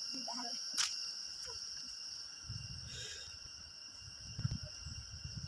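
A steady high-pitched insect chorus droning in the forest, with a single click just under a second in and a low rumble joining from about halfway.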